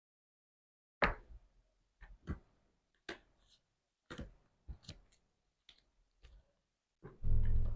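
Slime being squeezed and poked, making short sticky clicks and pops about once a second, with a longer, fuller squelch near the end.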